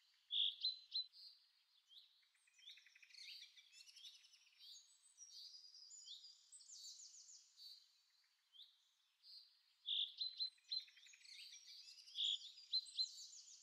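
Birds chirping and singing: a busy run of short, high calls and trills, with a few louder chirps about half a second in, around ten seconds in and near the end.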